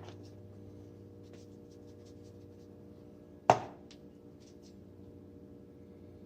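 Kitchen handling sounds over a steady low hum: a few faint clicks and one sharp knock about halfway through, like a utensil or dish set down hard.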